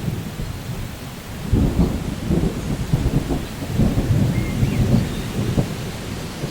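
Rolling thunder over steady rain in a rainforest, the rumble swelling about a second and a half in and rolling on for several seconds. A bird gives a faint short chirp partway through.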